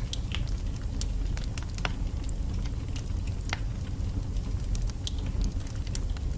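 Wood fire burning in a fireplace: a steady low rumble with irregular sharp crackles and pops from the logs, several a second.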